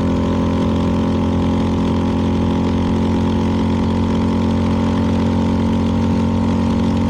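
CFMoto 300NK's single-cylinder engine idling steadily.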